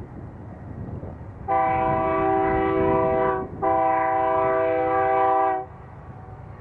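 Locomotive chime horn sounding two long blasts of a steady multi-note chord, about two seconds each with a short gap between them, over the low rumble of the train. Two long blasts is the standard signal that a train is releasing its brakes and proceeding.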